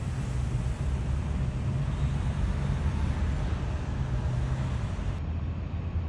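Road vehicle engines and traffic, a steady low rumble over road noise; the sound turns duller about five seconds in.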